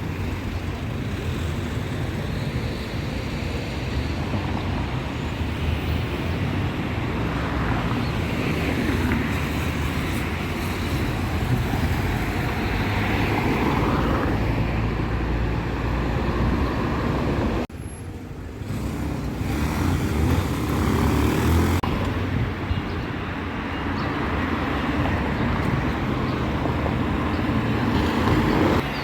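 Steady road-traffic noise from passing cars, a continuous low rumble, with a short drop-out about eighteen seconds in.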